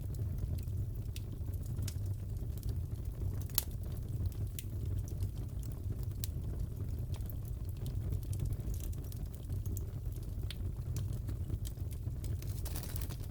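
Crackling fireplace: a steady low rumble of the fire with irregular sharp pops and crackles, one louder pop about three and a half seconds in, and a brief hiss near the end.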